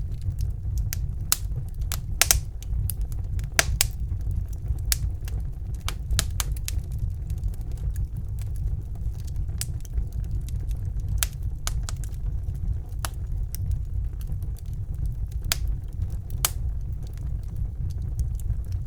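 Wood fire burning in a fireplace: a steady low rumble of the flames with irregular sharp crackles and pops, a few louder pops about two and four seconds in.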